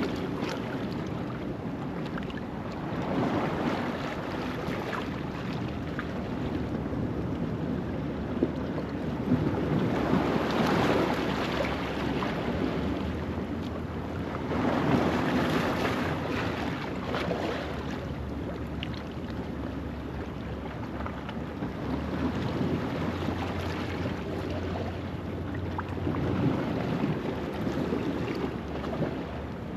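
Ocean waves washing over a rocky shoreline at low tide, a steady hiss of surf that swells with each wave every few seconds. A low steady hum sits underneath from about halfway through.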